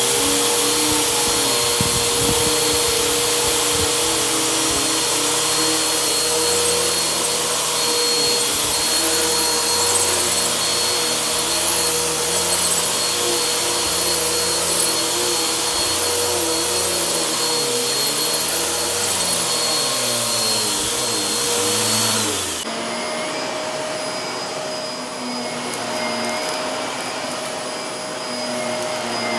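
Vacuum cleaner running steadily with a high whine, the motor's pitch wavering slightly as it works. About 22 seconds in, the sound changes abruptly: quieter, with a different whine.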